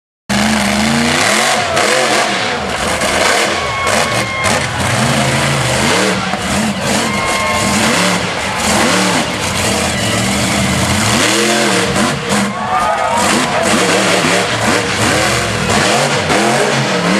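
Monster truck engine revving hard, its pitch climbing and falling again and again as the throttle is worked.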